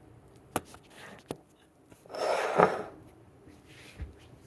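Two light clicks of kitchen utensils on a pan, then a short rush of noise about two seconds in that lasts under a second.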